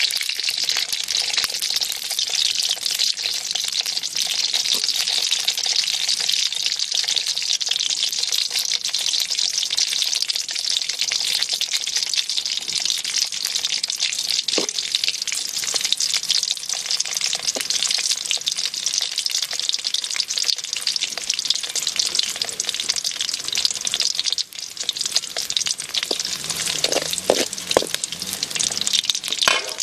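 Chopped onions and green chillies frying in hot oil in a wide aluminium kadai, a steady sizzle throughout. Near the end the pan is stirred with a ladle.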